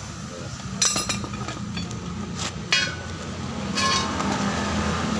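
Metal tools clinking and knocking against steel parts during work on a truck differential: several sharp metallic strikes that ring briefly, over a steady low hum.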